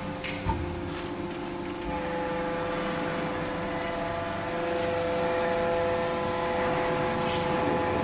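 Vertical cardboard baler's hydraulic power unit running with a steady whine, with one short knock about half a second in.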